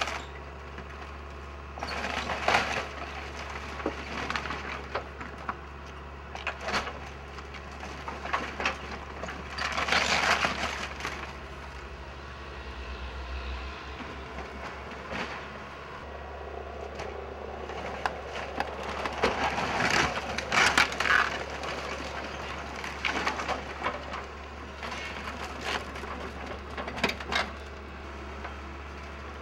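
Wooden building structure being torn apart by an excavator: repeated bursts of wood cracking, splintering and crushing, loudest about ten seconds in and again around twenty seconds, over a steady low hum.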